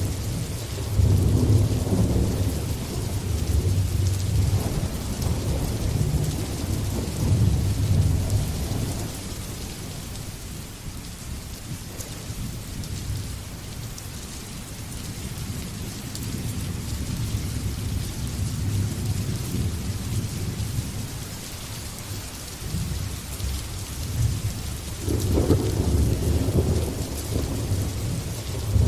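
Thunderstorm: steady heavy rain with rolling thunder rumbling low underneath. The thunder is strongest in the first several seconds, fades in the middle, and builds again near the end.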